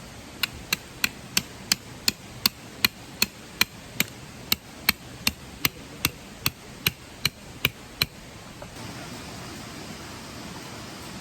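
A steady run of about twenty ringing blows, close to three a second, stopping about eight seconds in.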